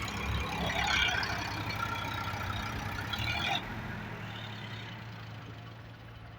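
Tractor diesel engine running steadily. The higher clatter drops away about three and a half seconds in, and the engine sound then slowly fades.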